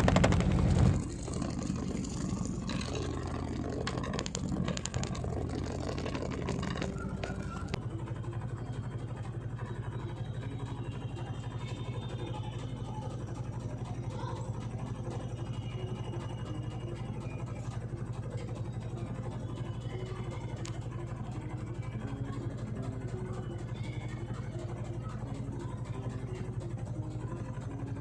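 Godrej 6.2 kg top-load fully automatic washing machine running, a steady low motor hum. It is louder and noisier for the first few seconds, then settles.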